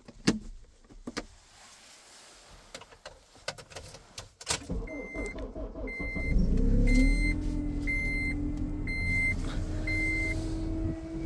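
Clicks and knocks of handling inside the car, then a Honda Element's 2.4-litre four-cylinder engine cranks and starts on a cold start at about −33 °F, its pitch rising and settling into a steady fast idle. Meanwhile a dashboard chime beeps six times, about once a second.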